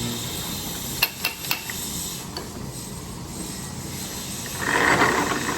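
Shop press forcing a tightly splined differential part out. A few sharp metal clicks come about a second in, then a louder, noisy stretch of about a second near the end. A low steady shop hum runs underneath.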